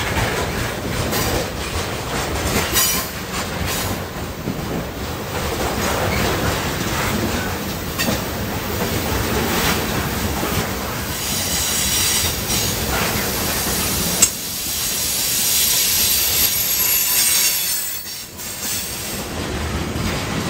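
BNSF freight train's flatcars rolling past close by: steady rumble and clatter of wheels on the rails. A high wheel squeal builds just past the middle, with one sharp clank, then eases off near the end.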